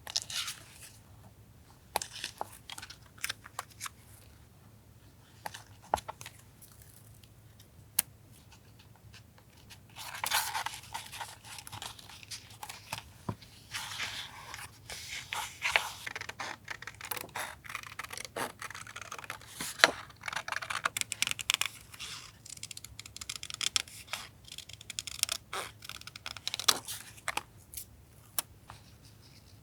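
Paper being handled and worked for a collage journal: separate light taps and clicks at first, then from about ten seconds in, nearly continuous crinkling, scraping and tearing-like rustling of paper.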